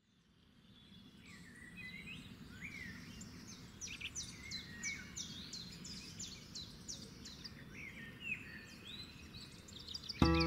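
Songbirds chirping and trilling over a low outdoor background hum, fading in from silence over the first couple of seconds, with runs of quick, high, falling chirps. Music starts suddenly and loudly near the end.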